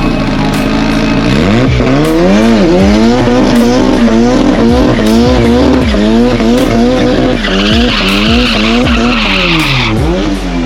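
Car engine revving hard, its pitch swinging up and down about twice a second as the throttle is worked, with tyres squealing, loudest for a couple of seconds near the end.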